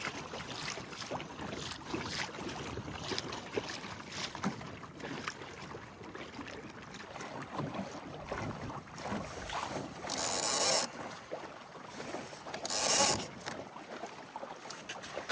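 Water lapping and trickling against a sailing dinghy's hull, with many small knocks and creaks of the boat. Two short, louder rushes of noise come about ten and thirteen seconds in.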